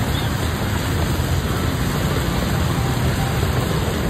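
Steady rain falling on a wet street, an even hiss over a constant low rumble.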